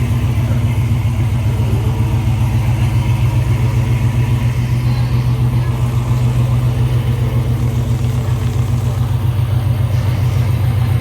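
Dodge Charger's Hemi V8 running steadily with a deep, evenly pulsing low rumble and no revving.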